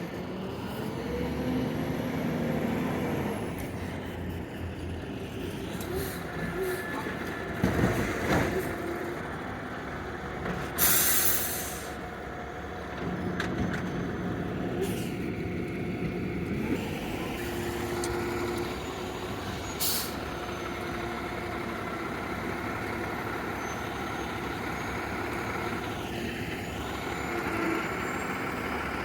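Garbage truck engine running steadily, with a loud hiss of released air lasting about a second, some eleven seconds in, and a shorter hiss near twenty seconds.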